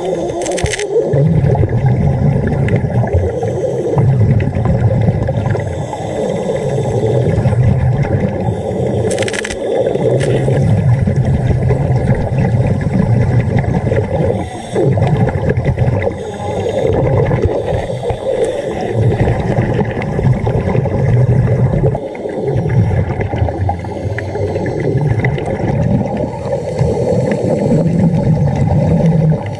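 Scuba diver breathing through a regulator underwater: exhaled bubbles gurgling in long stretches, with brief pauses between breaths.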